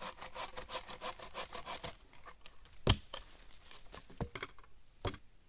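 Hand saw cutting through a log with quick, rhythmic strokes for about two seconds, then stopping; a few sharp wooden knocks follow, the loudest about three seconds in.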